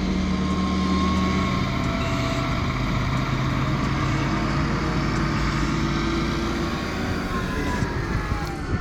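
A heavy vehicle's engine running hard as it tries to get unstuck, its pitch rising slowly through the middle.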